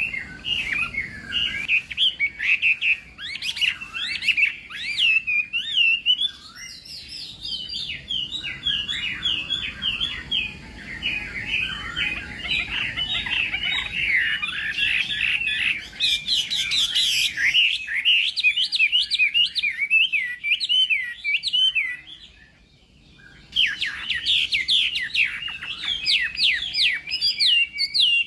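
Chinese hwamei singing a long, fast run of varied whistled phrases, with a brief pause about 22 seconds in before the song resumes.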